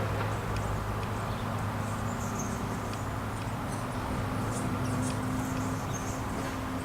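Small songbirds making short, high chirps, more and more of them from about two seconds in, over a steady low hum.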